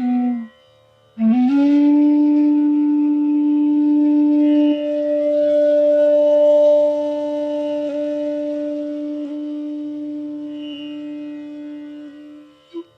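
Bansuri, the North Indian bamboo flute, playing a raga: a short note, a brief pause, then one long held note that slides up into pitch and slowly fades over about eleven seconds, closing with a quick short note. A soft steady drone sounds underneath.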